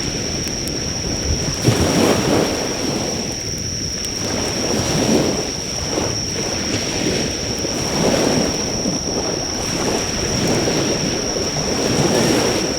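Surf breaking on the shore in repeated swells, with a steady high insect trill throughout. The crackle of a driftwood fire is faint beneath them.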